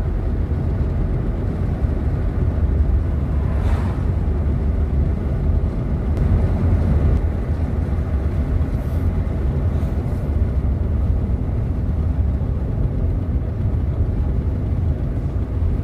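Steady low rumble of road and engine noise heard inside a moving vehicle's cabin.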